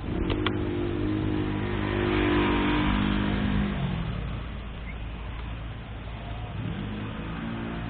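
Motorcycle engine accelerating, its note rising over the first few seconds with a hiss of tyres on the wet road, then easing off about four seconds in and picking up again near the end. Two short clicks just after the start.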